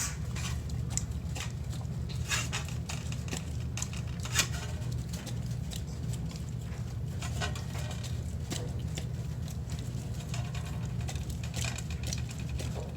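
Dog eating wet canned dog food: irregular wet smacks, licks and chewing clicks, one sharper click about four and a half seconds in, over a steady low hum.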